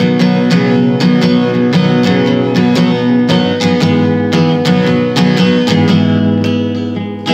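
Acoustic guitar strumming chords in an even rhythm, an instrumental passage of a song with no singing.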